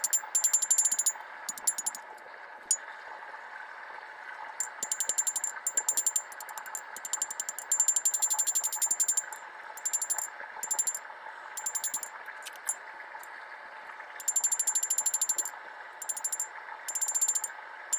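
Hammer striking hot rebar steel on an anvil in quick runs of blows, each run about a second long with short pauses between, and a bright metallic ring on every strike, as the knife's bevels are finished and the blade straightened. A steady rushing noise runs underneath throughout.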